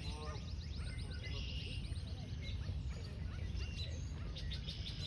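Birds chirping and calling, with a rapid high trill in the first second and a half and scattered short calls after it, over a steady low rumble.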